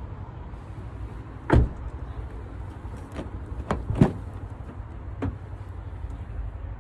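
A car's doors and fittings knocking and clicking about five times, the loudest about a second and a half in and four seconds in, over a steady low rumble.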